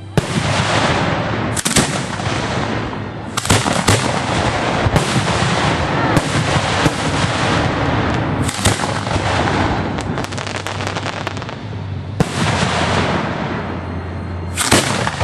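Fireworks firing from ground racks, with sharp reports every second or two over continuous crackling.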